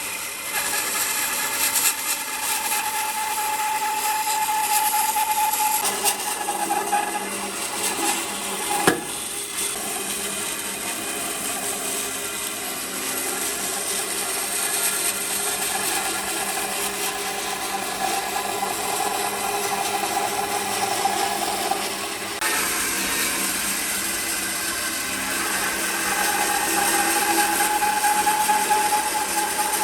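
A handheld power tool works wood without a break: its motor whine drifts slowly in pitch over a rough hiss of cutting or abrading. A single sharp knock comes about nine seconds in.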